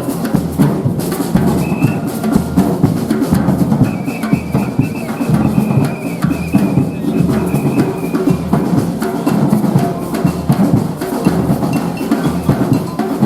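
Live band playing with a drum kit keeping a steady beat, the bass drum prominent. A high note is held for several seconds in the middle.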